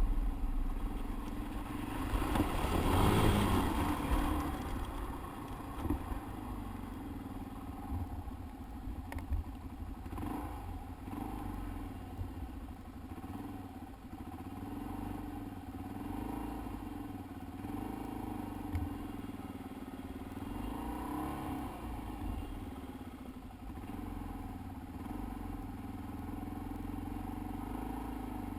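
Dirt bike engine running at fairly steady low revs, its note wavering a little, with a louder noisy swell about three seconds in.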